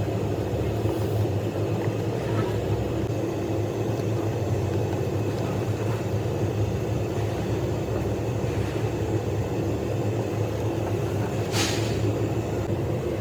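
Steady low mechanical hum, as of an engine or motor running, with a short sharp burst of noise near the end.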